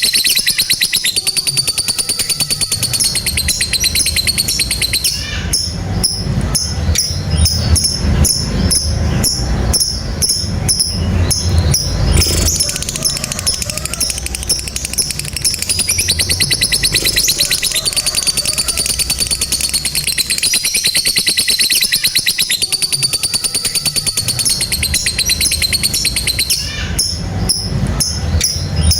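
Lovebird 'ngekek': a long, unbroken, rapid high-pitched chattering trill with whistled notes woven through it, over a low rumble.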